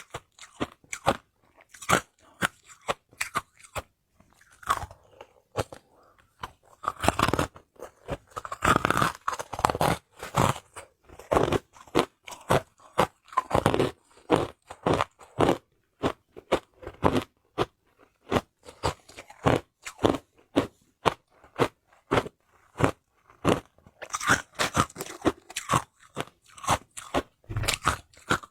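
Hard ice being bitten and chewed close to the microphone: a fast run of sharp, crunchy cracks, with thicker bursts of grinding crunches about a quarter of the way in and again around the middle.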